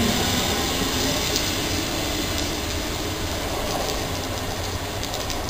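Southern electric multiple-unit passenger train moving away along the track, its rumble fading steadily as it recedes into the distance.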